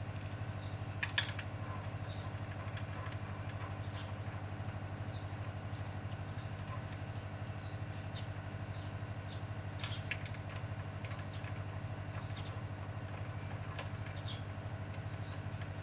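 Steady low mechanical hum, like an engine or motor running, with a constant high whine over it and a few light clicks, the sharpest about a second in and another near ten seconds.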